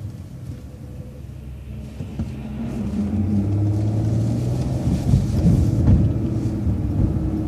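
Vehicle engine and road rumble heard from inside the cabin, getting louder about two seconds in as the vehicle pulls away and accelerates, with a low engine hum and bumpy rumble in the second half.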